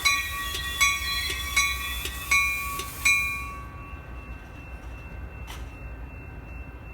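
Railroad bell ringing in even strokes about every three quarters of a second, each stroke ringing on, stopping about three seconds in, over a steady low rumble of a train.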